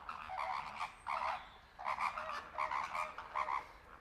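A flock of flamingos calling: short, pitched calls from several birds, overlapping, about two or three a second.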